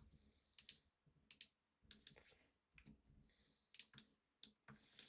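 Faint, scattered clicks from a computer mouse and keyboard, several in quick pairs.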